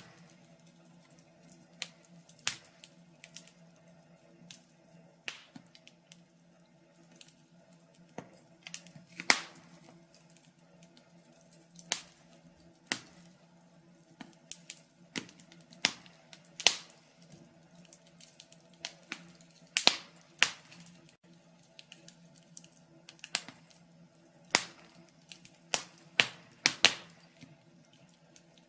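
Wood fire crackling: burning logs giving off irregular sharp pops and snaps, several loud ones close together around the middle and near the end, over a faint steady hum.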